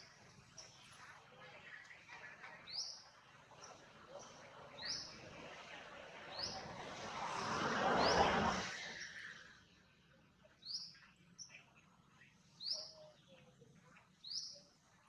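A bird chirps repeatedly, one short high upward-sweeping note about once a second. About halfway through, a broad rushing noise swells, peaks and fades away over roughly four seconds.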